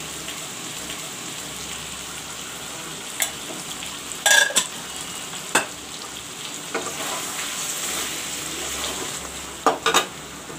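Chicken and onions sizzling steadily in hot mustard oil in an aluminium kadai, with several sharp clanks of a metal utensil against the pan: the loudest, with a brief ring, about four seconds in, and two quick ones near the end as the stirring begins.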